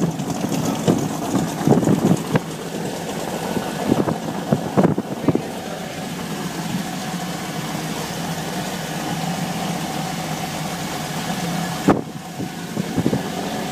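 Powerboat engine running steadily at a low idle, with short louder bursts breaking in over the first few seconds and again near the end.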